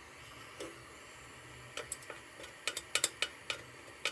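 Light, sharp metallic taps, irregular and growing more frequent from about two seconds in, each with a brief ring: a tool tapping against the sheet-metal lantern while globs of solder are being worked off it.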